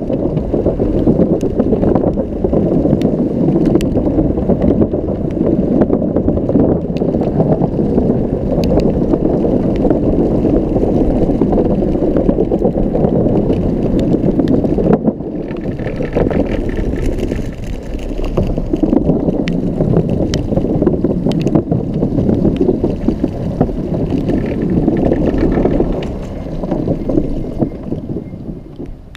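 Steady low rumbling noise of riding a Xiaomi M365 electric scooter: the wheels rattle over paving and wind hits the camera microphone. About halfway through it gets quieter and hissier, and it fades away near the end.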